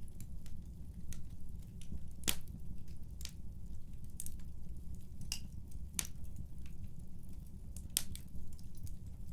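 Wood fire burning in a fireplace: irregular sharp pops and snaps of crackling wood over a low steady rumble of the flames, with a few louder cracks standing out among the smaller ticks.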